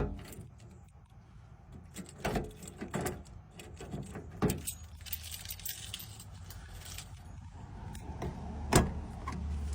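Keys jangling with scattered clicks and knocks as the ignition key and dash controls of a 1984 Toyota Sunraider are worked before a cold start, the loudest knock near the end. A low steady hum comes in just before the end.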